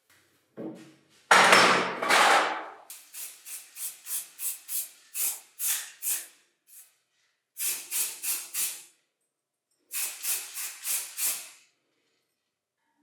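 Paint being sprayed onto the concrete vibrator's body shell: one long hissing burst, then runs of short spray bursts about three a second, with pauses between the runs.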